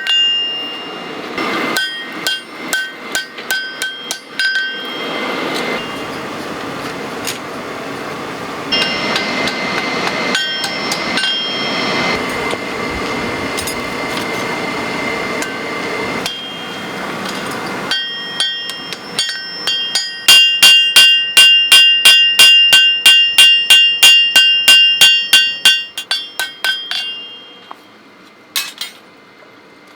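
Hand hammer blows on steel at an anvil, each strike ringing with a clear metallic tone. Spaced blows and a steadier rushing noise give way, past the middle, to a fast, loud run of about three strikes a second that stops a few seconds before the end, followed by two last taps.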